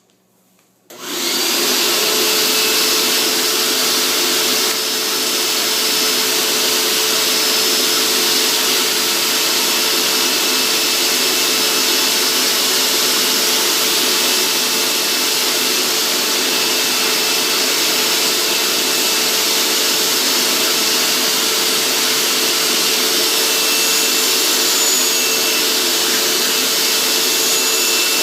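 Hoover SteamVac carpet cleaner switched on about a second in, its motor then running loudly and steadily with a constant hum.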